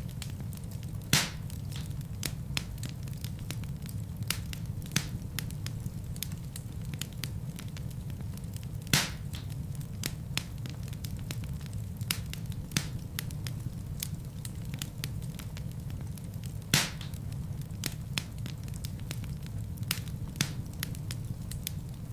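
Wood fire burning in a fireplace: a steady low rumble with frequent crackles, and three louder pops, about 1, 9 and 17 seconds in.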